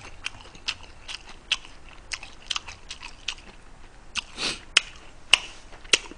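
Close-miked chewing: scattered wet mouth clicks and smacks, a few sharper ones near the end, with one soft breath about four and a half seconds in.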